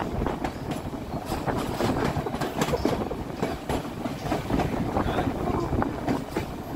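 Narrow-gauge railroad passenger cars running along the track, with the wheels rumbling and clicking irregularly on the rails and the car rattling, heard from the open platform between cars.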